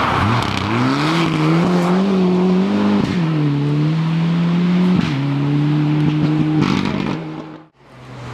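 Rally car engine accelerating hard: the revs climb steeply, then drop twice at upshifts about three and five seconds in. The sound cuts away sharply near the end.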